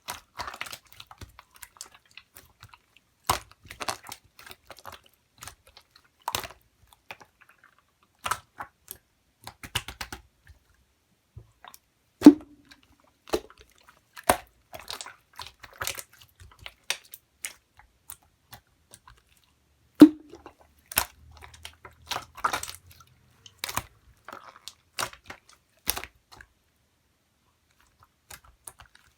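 Marbled slime being pressed and stretched by hand, making irregular small clicking and popping sounds. Two much louder pops come about a third and two thirds of the way in.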